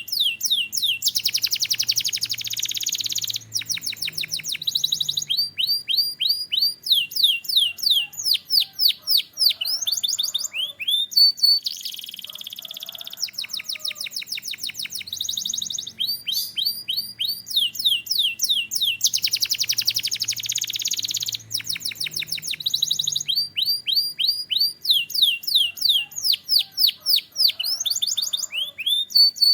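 A domestic canary singing a long, continuous song of fast trills and rapidly repeated high whistled notes, broken by a few denser buzzing rolls.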